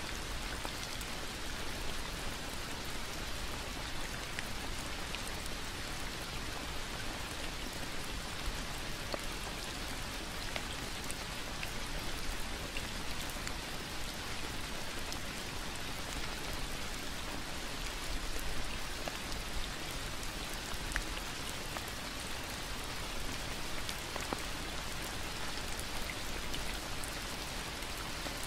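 Steady rain falling: an even hiss with individual drops ticking out here and there.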